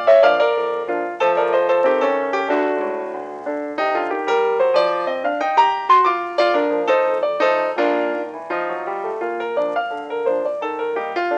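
Piano music: a flowing run of quick, ringing notes, several a second, without a pause.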